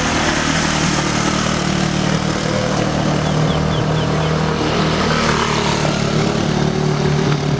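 Motorcycle and scooter engines running steadily under load on a steep uphill climb.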